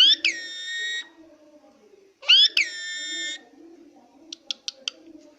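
Green parrot giving two long, harsh calls about two seconds apart, each rising at the start and then held at one steady, buzzy pitch for about a second. Near the end come four short clicks.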